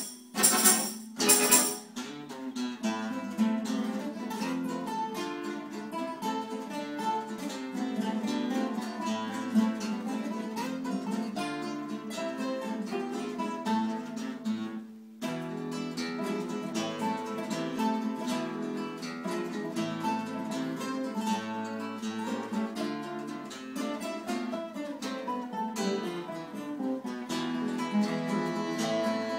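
Guitar ensemble playing a waltz: a few loud strummed chords open it, then a plucked melody over a bass line, with a brief break about fifteen seconds in.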